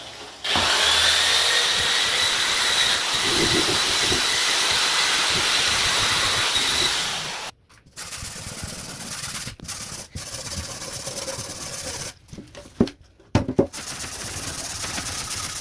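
Electric drill fitted with a circular wire brush scouring surface rust off a steel fire bowl, starting about half a second in with a high whine and running for about seven seconds before stopping. After that, quieter scraping of the metal with short pauses and a few knocks.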